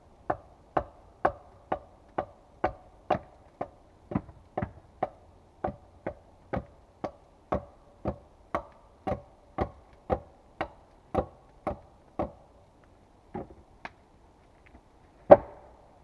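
A tool striking wood in a steady series of blows, about two a second for some twelve seconds, then a few scattered lighter blows and one heavier strike near the end.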